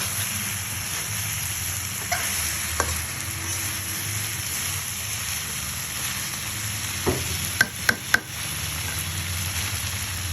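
Vegetable stems and shrimp frying in a pan with a steady sizzle as they are stirred. A few sharp clinks sound, three of them in quick succession near the end.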